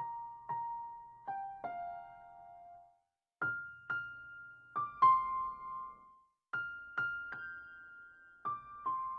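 A slow melody played one note at a time on a keyboard with a piano sound, each note struck and left to ring and fade. The notes come in short phrases of four or five, with brief silent pauses between them.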